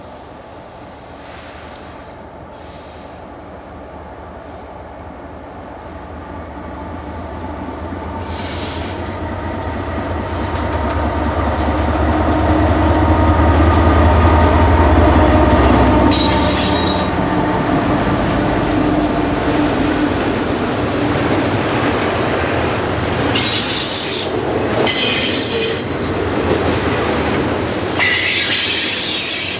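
Diesel-hauled train passing. The locomotives' deep engine rumble builds to a peak about halfway through, then the cars roll by with repeated bursts of high wheel squeal.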